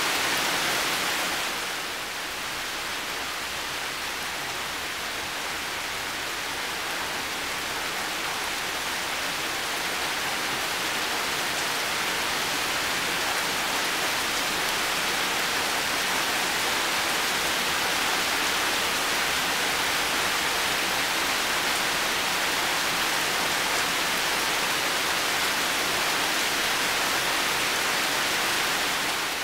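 Heavy rain falling steadily, an even dense hiss of countless drops. It dips slightly about two seconds in, then gradually swells back.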